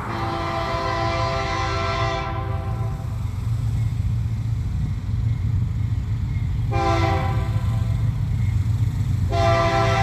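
Diesel freight locomotive's air horn sounding a chord of several notes: a long blast, a short one about seven seconds in, then another long one starting near the end, over the low rumble of the engines.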